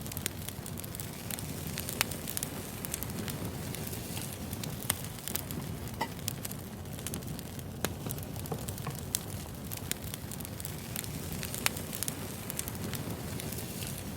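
Wood fire burning: a steady low rushing with scattered sharp pops and crackles of the burning logs, two of them louder than the rest.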